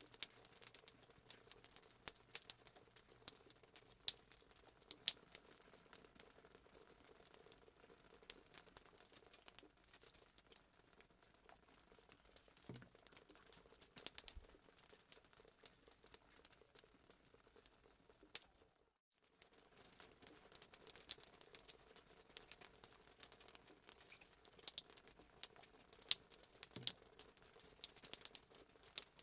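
Fireplace sound effect: a wood fire crackling faintly with irregular sharp pops and snaps. It cuts out for a moment about nineteen seconds in, then carries on.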